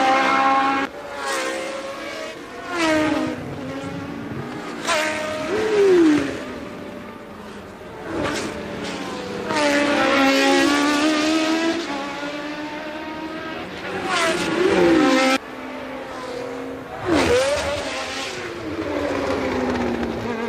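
1982 Formula One racing cars at full race speed, several passing one after another. Their engine notes rise as they accelerate and drop as they go by, with the sound changing abruptly several times at cuts.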